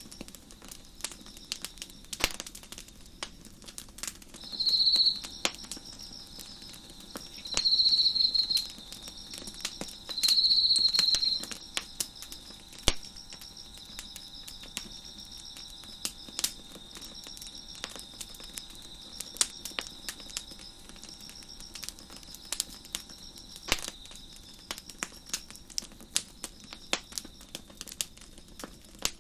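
Wood fire crackling, with irregular sharp pops and snaps, over crickets chirping steadily in a high, pulsing rhythm. Three louder bursts of trilling stand out in the first half.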